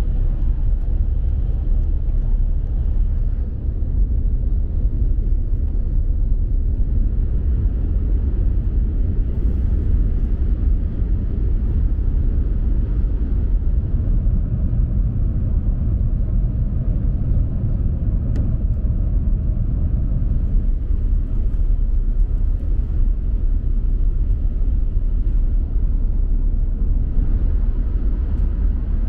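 Steady low rumble of a Tohoku Shinkansen bullet train running, heard from inside the passenger cabin.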